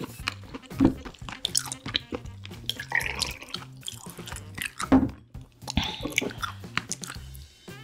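Close-miked wet chewing and lip-smacking of seafood, with sharp clicks and squishy bites, over quiet background music with a steady bass line.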